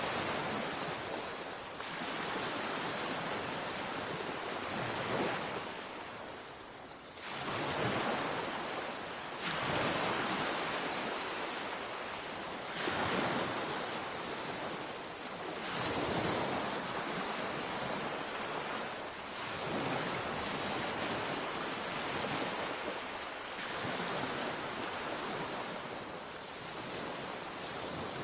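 Sea waves breaking and washing on the shore, the surf rising and falling every two to three seconds, with one stronger surge about a third of the way in.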